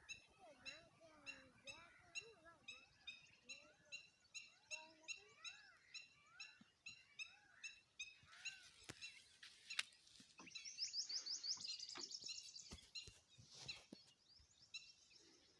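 Faint wild birds calling: one repeats a short high chirp about three times a second while others give lower, gliding warbled calls. About ten seconds in, a fast high trill runs for roughly two seconds, after a few sharp clicks.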